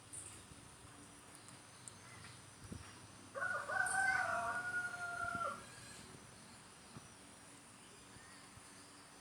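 A bird crowing like a rooster: one crow of about two seconds, rising at the start, held, and dropping off at the end.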